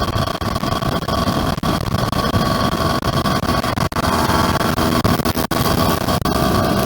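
Yamaha F1ZR two-stroke motorcycle engine running under way, with heavy wind noise on the microphone. The engine note changes about four seconds in.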